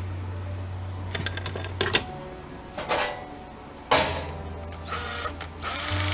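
Small metal parts and hand tools clinking and knocking as they are handled, with a few sharp clicks and a couple of short scraping rattles near the end, over a steady low hum.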